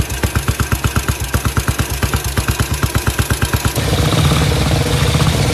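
Vintage motorcycle engine running at idle with distinct, evenly spaced firing beats, about eight a second. Just under four seconds in, it cuts to another vintage motorcycle engine running faster and smoother.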